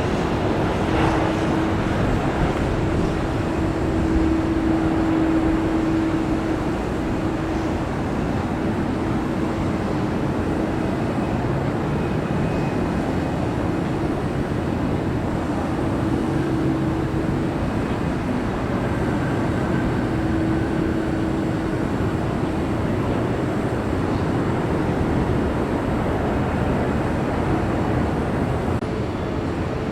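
Jet airliner engines running, a steady rush of noise with a low hum that comes and goes.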